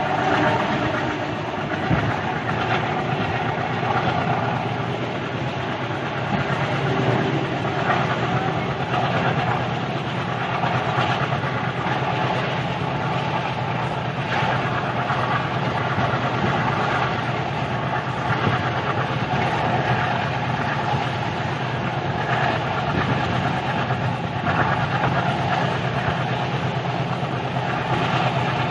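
Indian passenger train coach running along the track, heard at an open doorway: a steady rumble of wheels on rail and carriage rattle, with occasional clicks.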